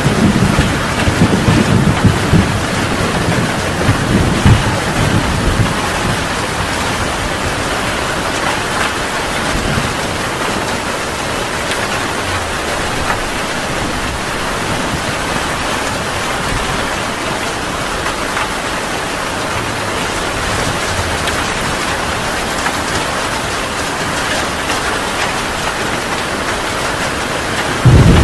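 Heavy rain falling steadily, with a low rumble of thunder in the first few seconds that fades away.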